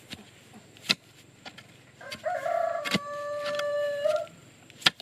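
A rooster crowing once, one long call of about two seconds starting about two seconds in. A few sharp knocks come before and around it.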